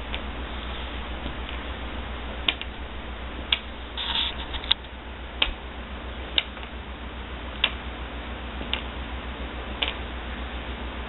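A window blind's draw string, knocked about by a cat's swishing tail, tapping in sharp clicks at irregular gaps of about a second, with a brief scrape about four seconds in, over a steady low hum.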